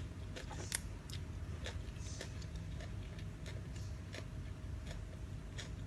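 Close-up chewing of a dry Thai noodle salad with crispy squid: irregular small clicks and crunches, a few each second, over a low steady hum.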